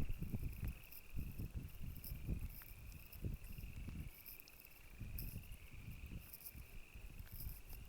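A steady, high trilling chorus of frogs, with gusts of wind rumbling on the microphone over it.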